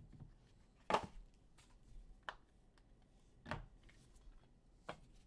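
Trading cards and their packaging being handled: a few scattered soft taps and rustles, the loudest about a second in.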